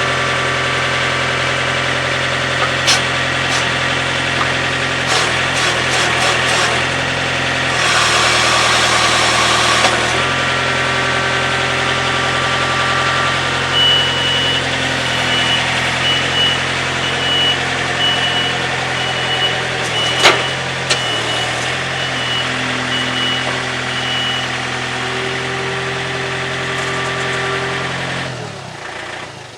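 Wood-Mizer LX25 sawmill engine running steadily, with scattered clicks and a rush of noise for about two seconds about eight seconds in. A faint high beep repeats for about ten seconds in the middle, and near the end the engine shuts off and spins down.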